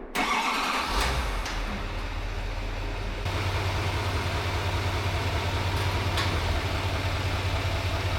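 A motor running steadily: a low hum under an even rushing noise, starting abruptly and getting a little deeper about three seconds in.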